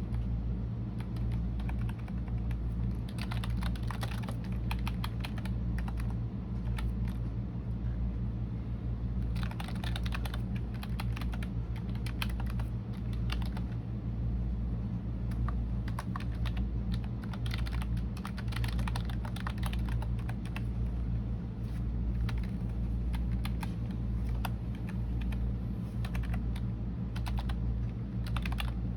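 Computer keyboard typing: quick runs of key clicks with short pauses between them, over a steady low hum.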